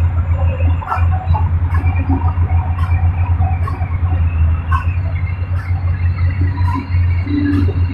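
Large excavator's diesel engine running steadily with a deep, rapidly pulsing rumble, with scattered light clanks and rattles over it.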